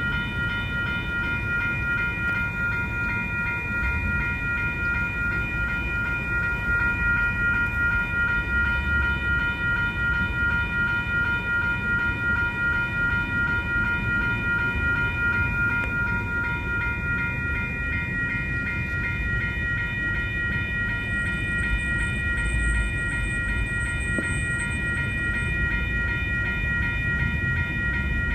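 Freight train rolling past with a steady low rumble from its railcars, over a set of steady high ringing tones.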